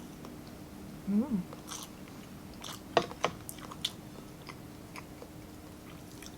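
Close-up eating sounds: wet chewing and biting on food, with a few sharp mouth clicks about three seconds in. A short hummed voice sound rises and falls in pitch about a second in.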